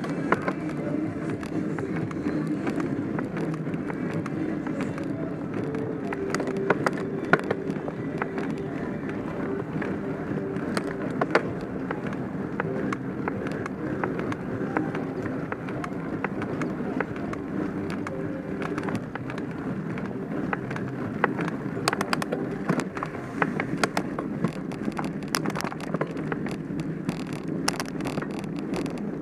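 Mountain bike ridden over a trail as heard from a camera on the bike or rider: steady tyre and wind noise with frequent sharp clicks and rattles from the bike over bumps, thicker near the end.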